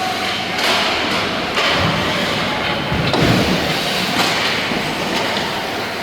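Game noise in an ice rink: a steady scraping hiss of skates on the ice, broken by several hard thuds and bangs against the boards.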